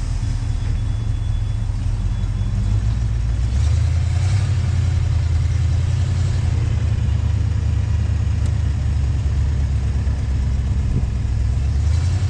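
1968 Buick Skylark's engine running under way with a steady low rumble, its note stepping up about three and a half seconds in.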